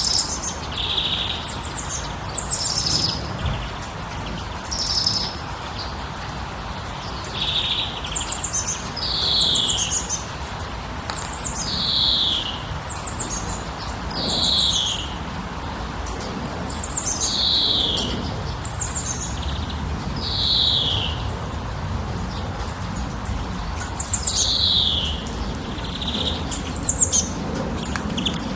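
Songbirds chirping over and over: short, high calls, many sliding down in pitch, coming every second or two, over a steady low background noise.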